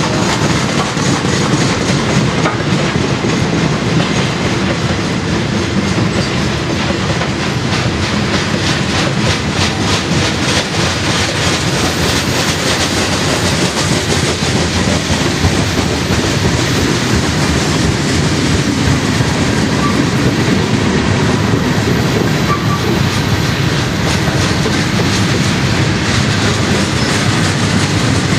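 Freight train cars rolling past on the rails: a steady rumble with the clickety-clack of wheels over the rail joints.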